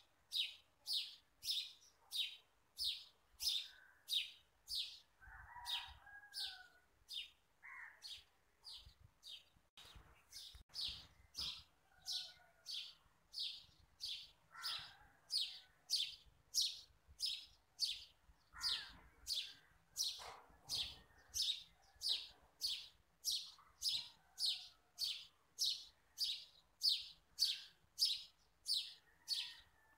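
A bird chirping over and over at an even pace, about two high chirps a second, with fainter, lower gliding calls now and then.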